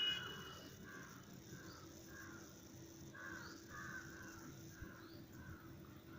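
Short animal calls repeated about twice a second, over a faint steady hum.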